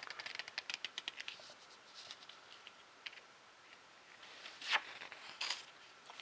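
Magazine pages being handled and turned: a quick run of small crackling clicks in the first second and a half, then two louder page-turn rustles near the end.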